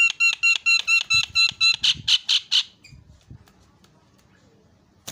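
Javan myna calling a rapid run of about fourteen short, ringing, repeated notes, about five a second. The last few notes turn harsher before the call stops short, about halfway through.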